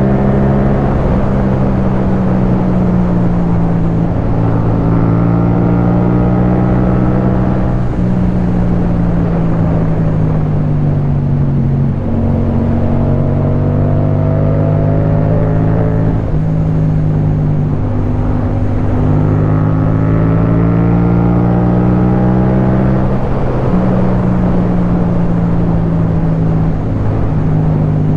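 Yamaha MT-07's parallel-twin engine through an Akrapovic titanium exhaust, pulling through the gears: the revs climb for a few seconds and drop sharply at each shift, several times over, over a steady rush of wind noise.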